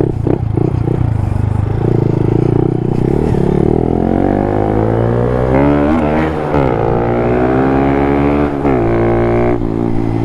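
Small single-cylinder Honda mini-bike engine (a Monkey or Grom 125) accelerating on the road, its pitch climbing and then dropping at a gear change about six seconds in, then climbing again with another drop near the end.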